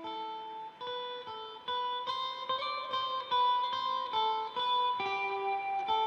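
Instrumental Middle Eastern-inspired funk music: a guitar picks out a melody one note at a time, getting louder about two seconds in.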